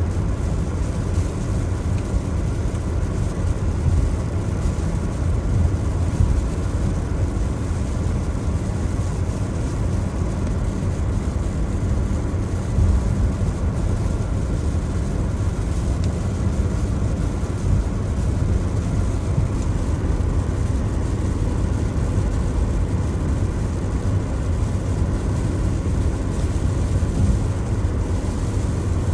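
Steady road noise of a car driving in the rain: a low rumble of tyres on wet pavement with a faint hiss above it.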